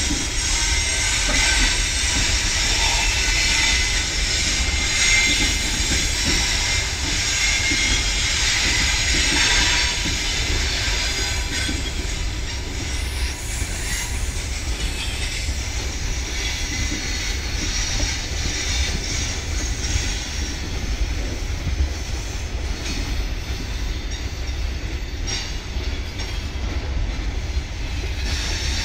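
Freight train of open gondola wagons rolling past: a steady low rumble of steel wheels on the rails, with high-pitched wheel squeal that is stronger in the first half and eases off later.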